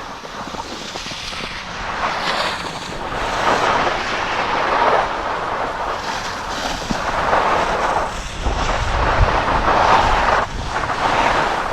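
Skis sliding and scraping over packed snow during downhill turns, with wind buffeting the microphone: a rushing noise that swells and fades every couple of seconds, with a low wind rumble late on.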